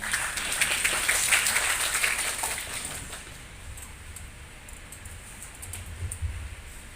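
Audience applauding, starting at once and fading out after about three seconds.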